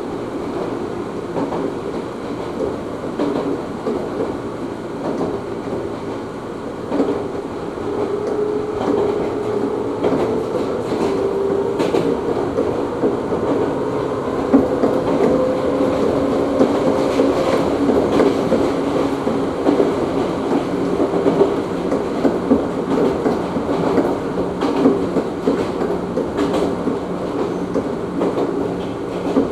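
Ohmi Railway train running between stations, heard from inside the car: steady rumble of wheels on rail with a humming drive tone that rises a little and then eases off, and occasional clacks as the wheels cross rail joints.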